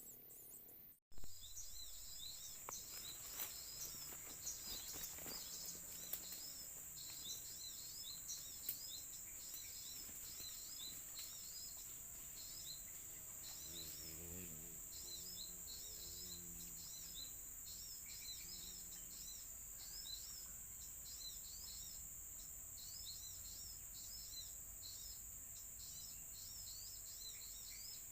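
Faint small-bird chirps, quick high twittering calls repeating over and over, over a steady high-pitched insect drone.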